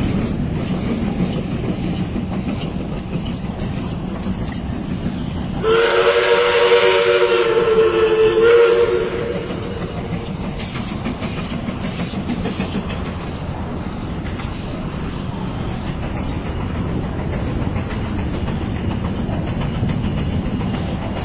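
The steam whistle of a 1947 Baldwin Mikado narrow-gauge steam locomotive sounds for about three seconds, several notes at once, starting about six seconds in, over the steady running noise of the moving train.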